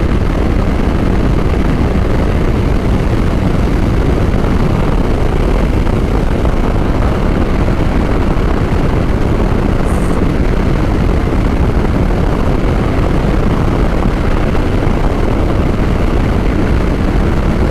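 Motorcycle at highway speed: steady, loud wind rush on the rider's microphone over engine and road noise.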